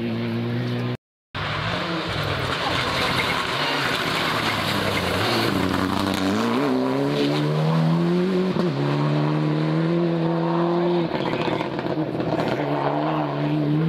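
Rally car engine at high revs on a gravel stage, its pitch climbing and dropping several times through gear changes and lifts, with tyres scrabbling on loose gravel. The sound cuts out briefly about a second in.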